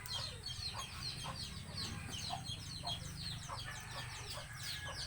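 Chickens peeping and clucking: many quick, high downward-sliding peeps in a continuous chorus, with short lower clucks now and then.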